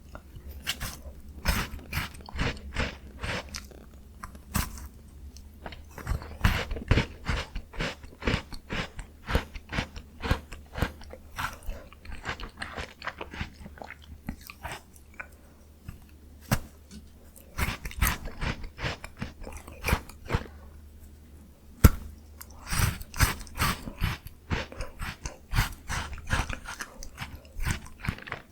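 Close-miked biting and crunchy chewing of a miniature Jaws Bar frozen ice cream, with quick runs of sharp crunches and a couple of quieter spells between bites.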